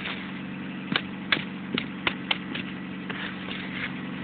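A car engine idling steadily, with a scattering of sharp, irregular clicks and knocks over it.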